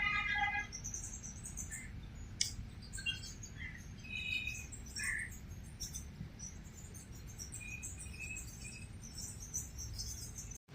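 Birds chirping in the trees, short scattered calls, with a quick run of repeated notes at the very start, over a low steady background rumble.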